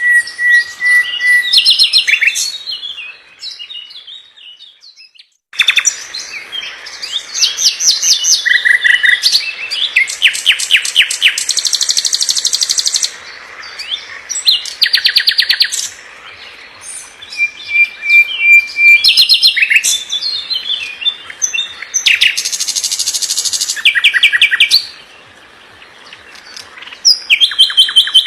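Nightingale singing: phrases of rapid repeated notes and dry trills alternating with long whistled notes, with a short pause about five seconds in.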